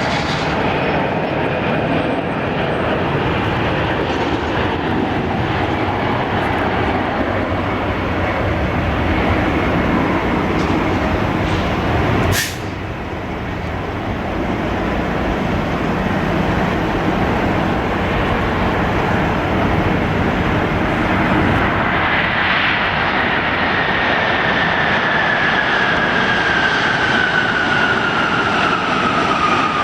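Jet airliners flying over low on landing approach: a steady engine roar, broken by a sharp click and a dip in level about twelve seconds in, then a high engine whine that falls steadily in pitch as the plane passes.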